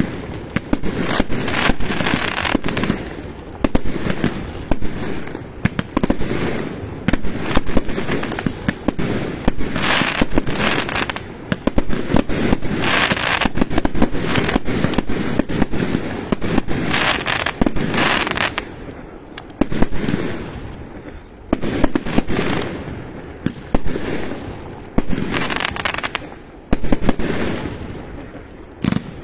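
Firecrackers going off in rapid, continuous strings of pops, swelling and fading in waves every few seconds.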